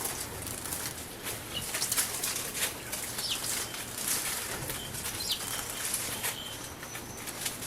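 Eurasian tree sparrows bathing in a bird bath, repeatedly fluttering their wings in the water in quick, irregular bursts of splashing, with a few short chirps.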